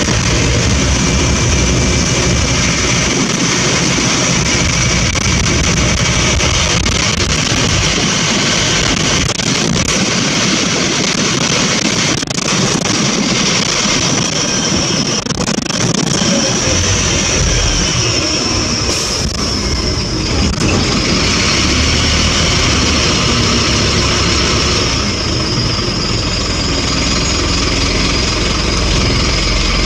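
Scania N230UB single-deck bus running, with continuous engine and road noise and a steady high whine; the low rumble grows stronger about halfway through.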